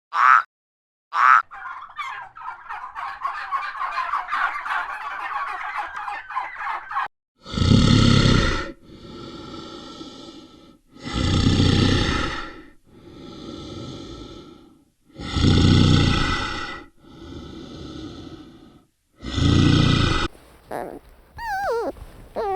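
Animal calls. First a rapid gobbling chatter lasting several seconds, then a series of loud drawn-out calls alternating with quieter ones, and near the end a few gliding whistle-like notes.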